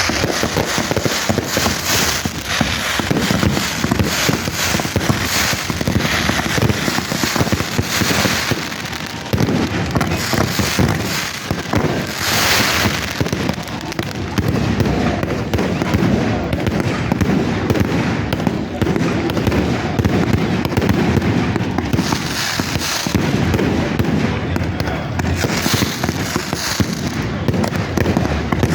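Fireworks going off without pause: a dense run of rapid cracks and bangs, with people's voices underneath.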